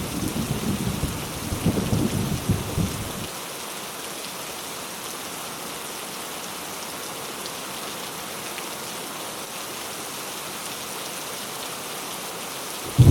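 Heavy rain falling in a steady hiss, with rolling thunder rumbling low for the first three seconds. The thunder cuts off suddenly, leaving only the rain, and comes back suddenly at the very end.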